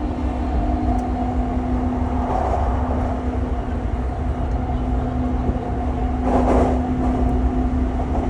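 JR Chuo Line rapid electric train running at speed, heard from inside the passenger car: a steady low rumble with a constant motor hum, and a brief louder rush about six seconds in.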